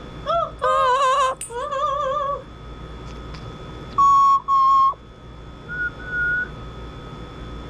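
Double yellow-headed Amazon parrot whistling: a run of wavering, warbled whistles in the first couple of seconds, then two loud, flat whistle notes about four seconds in, and a faint short whistle near the end.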